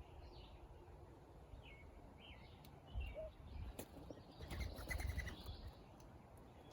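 Small songbirds chirping faintly in short, quick notes, with a low rumble and a few clicks for a couple of seconds around the middle.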